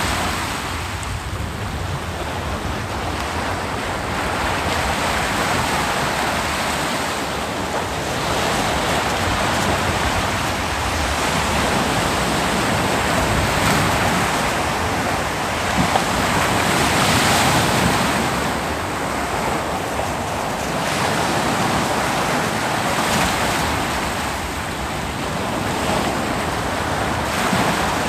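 Ocean waves breaking and washing on a beach, the surf swelling and falling back every few seconds, with some wind on the microphone.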